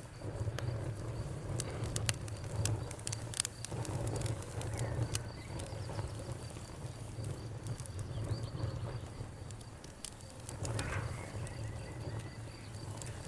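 Wood fire crackling with scattered sharp pops over a low steady rumble, while crickets chirp in a fast, even high trill. A bird calls briefly near the end.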